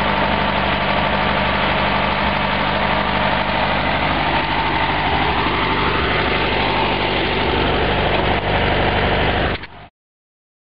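The air-cooled Volkswagen flat-four engine of a 1964 Karmann Ghia idling steadily with the engine lid open; the sound cuts off abruptly near the end.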